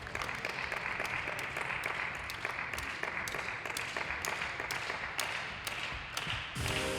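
Arena audience applauding, a dense patter of many hands clapping, with music starting near the end.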